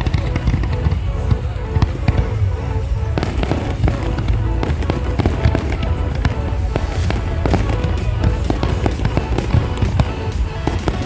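Fireworks going off in a rapid, dense string of bangs and crackles, over loud music with a heavy bass.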